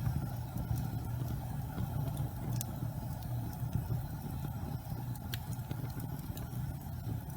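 Gas fireplace flames burning with a steady low rumble, broken by a few scattered faint crackles.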